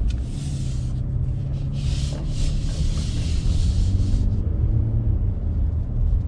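2022 Nissan Frontier's 3.8-litre V6 running at low speed, heard from inside the cab as a steady low hum. Stretches of hiss lie over it, briefly about half a second in and again from about two to four seconds in.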